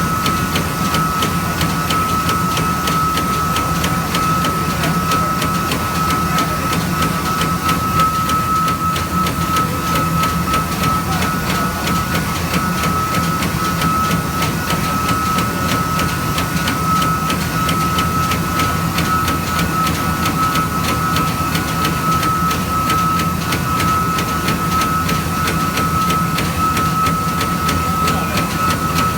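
Eight-spindle CNC machine running: a steady high-pitched whine over fast, even ticking and a low hum.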